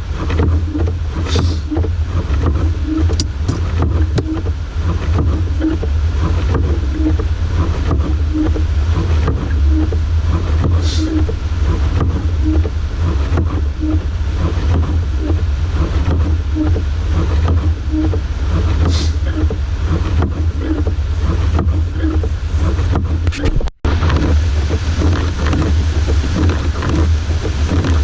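Steady low rumble of a Jeep driving through a blizzard, heard from inside the cab: engine, tyres and wind, with a faint repeating pulse about once a second. The sound cuts out for an instant about 24 seconds in.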